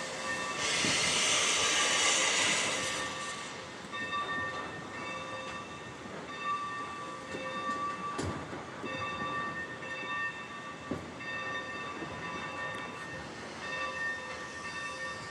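Santa Fe 2926 steam locomotive: a burst of steam hiss lasting about two seconds near the start, then a bell ringing steadily in evenly repeated strokes.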